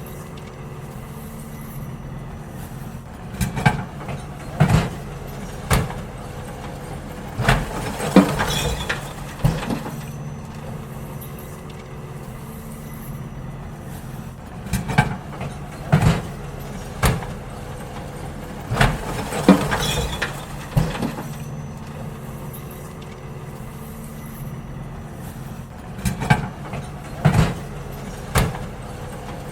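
Garbage truck engine running steadily, with groups of loud bangs and clatter as wheelie bins are lifted, tipped into the hopper and knocked empty. The banging comes in three bursts, roughly every 11 seconds, each a few seconds long.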